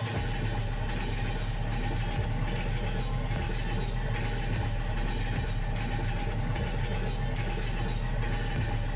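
An engine running steadily at idle, a constant low hum that does not rise or fall.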